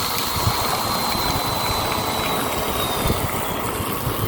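Dirt Devil Powermax Pet upright vacuum cleaner running with water poured into it: a steady rushing motor noise with a thin high whine that sags slightly and fades out about three seconds in.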